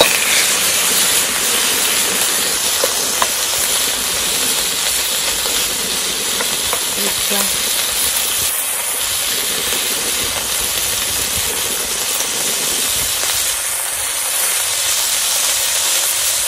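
Shrimp and minced shallot frying in hot oil in a nonstick wok: a steady sizzle.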